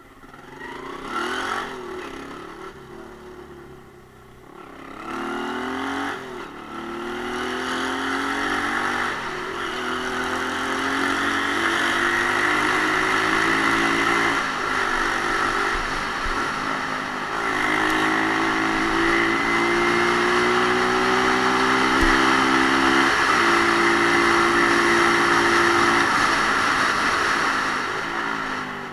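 Romet Ogar Caffe 125's single-cylinder engine pulling away and accelerating up through the gears, its pitch climbing and dropping back at each shift, with wind noise building as speed rises. The engine eases off near the end.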